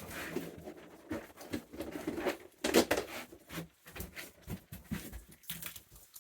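Raccoons eating treats: irregular crunching, clicking and scuffling sounds, several a second, with no steady background.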